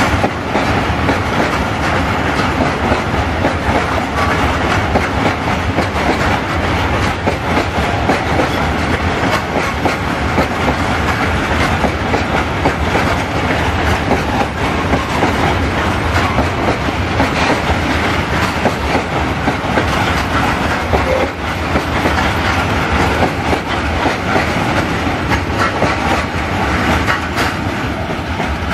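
Long freight train of open coal wagons rolling past, wheels clattering steadily over the rails with a continuous loud rumble.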